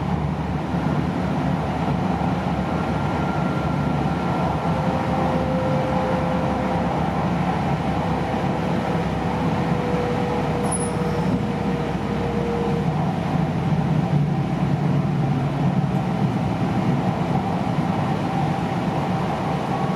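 Steady running noise inside an E6 series Shinkansen car at speed: a low rumble with a faint whine that drifts slightly down in pitch.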